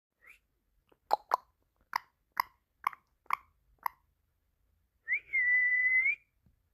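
Seven sharp clicks, about two a second, then a single whistle held at one pitch for about a second, with a short upturn at its start and end.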